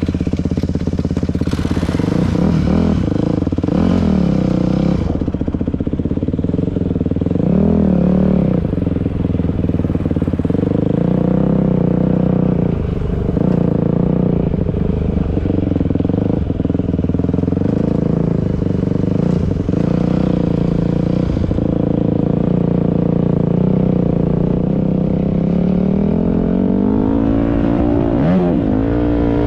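Dirt bike engine running while riding. The revs rise and fall a few times, then climb near the end.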